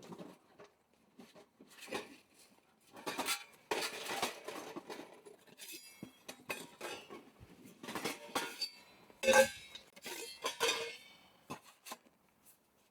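Dishes and utensils being handled: irregular clinks and knocks with short pauses between them, the loudest about nine seconds in.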